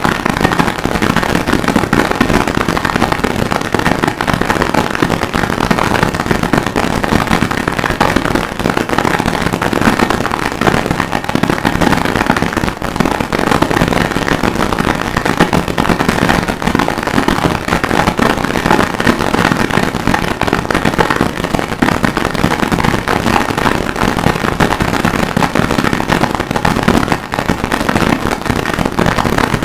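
Harsh noise music: a dense, unbroken wall of distorted crackle, loud and level.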